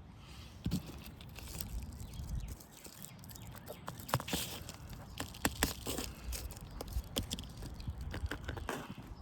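Scattered light crackles and scuffs of movement on an asphalt shingle roof, over a steady low rumble.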